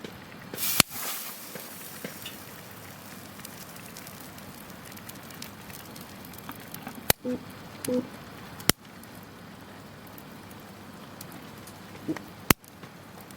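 Wood campfire burning with a steady low hiss and crackle, broken by four sharp pops from the burning wood.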